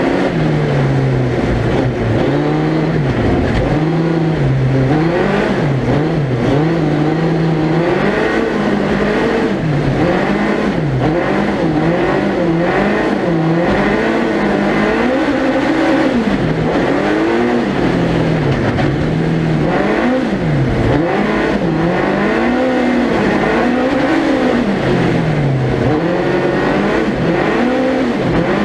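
Suzuki Hayabusa 1300cc motorcycle engine in a four-wheel-drive ice-racing prototype, revving hard and falling back over and over as the car is driven through the corners of an ice circuit.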